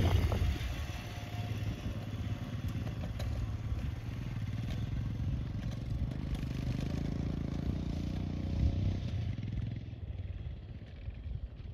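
Royal Enfield Himalayan single-cylinder motorcycle engine running steadily, fading out about nine seconds in.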